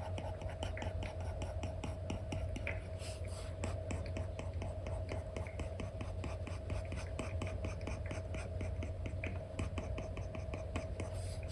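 Apple Pencil tip with an Elecom nib tapping and scratching on an iPad's paper-like screen film, in quick, uneven strokes several times a second, over a steady low hum.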